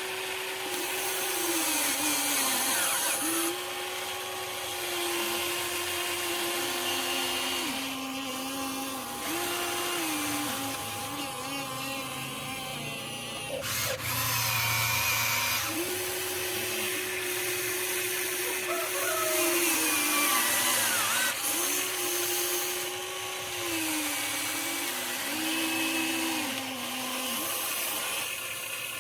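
Electric motors of a Huina 1593 RC excavator whining as the machine works, the pitch dropping and coming back up every few seconds as the motors change speed. A sharp click about halfway through.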